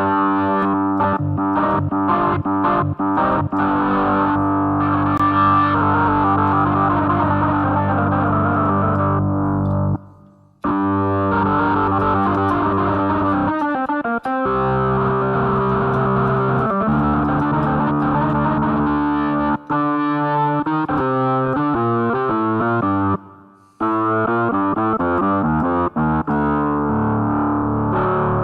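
Organ tone on a Casio AiX-sound electronic keyboard, played as held chords and then quick alternating notes in the latter part. The sound breaks off briefly twice, about ten seconds in and again at about twenty-three seconds.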